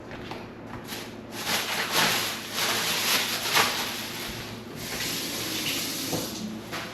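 Water running and splashing into a sink, building up about a second and a half in and easing off near the end.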